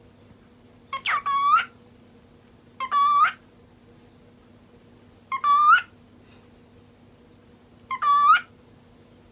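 Male cockatiel calling out its mimicked "bye bye" four times, a couple of seconds apart; each is a short two-part whistly call whose second part bends upward at the end.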